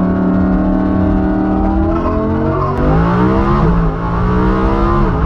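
Lamborghini engine running with a steady drone, then pulling harder: its pitch climbs and drops sharply twice as it shifts up through the gears.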